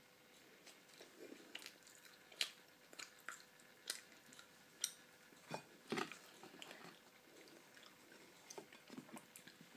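Faint chewing of a soft white-bread tuna mayonnaise sandwich, with small irregular mouth clicks every second or so.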